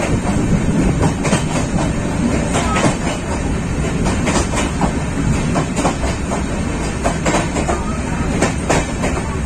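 Swarna Jayanti Express passenger train running along the track, heard from on board: a steady loud rumble with irregular clacks of the wheels over the rails.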